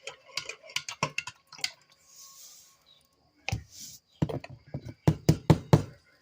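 Clinks and knocks of a spoon and coffee mug being handled, in quick runs of sharp clicks, loudest in a rapid run near the end, with a brief soft hiss a little past the middle.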